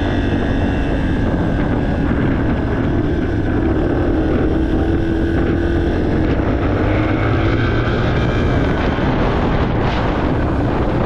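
A 2023 Yamaha TT-R230 dirt bike's single-cylinder four-stroke engine running steadily under way, its pitch rising a little in the middle and easing back, with wind buffeting the microphone.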